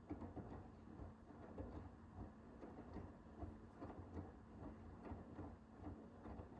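Hoover H-Wash 500 washing machine, faint, partway through its Cotton 60 wash: the drum turning the load with soft, irregular clicks and knocks over a steady low hum.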